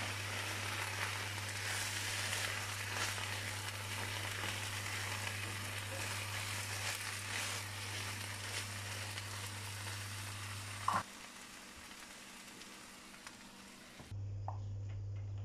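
Potato-and-vegetable filling sizzling in a hot frying pan while a silicone spatula stirs and scrapes it, over a steady low hum. The sizzling stops abruptly at a sharp click about eleven seconds in.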